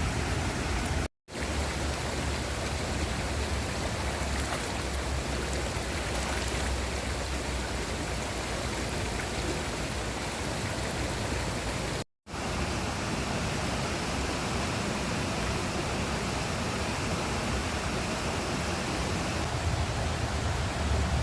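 Steady rushing of river water, an even wash of noise with a low rumble beneath, broken twice by brief cuts to silence.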